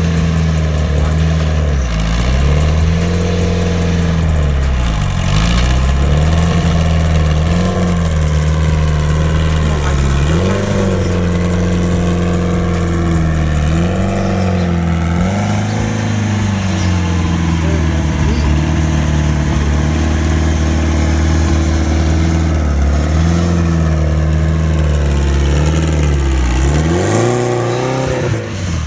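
Car engine idling with light throttle blips every few seconds, the pitch rising and dipping briefly each time.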